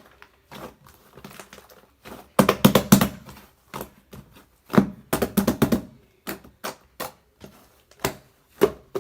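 Slime being squished and pressed by hand, making bursts of sticky clicks and pops, with the busiest runs about two and a half seconds and five seconds in and scattered single clicks between.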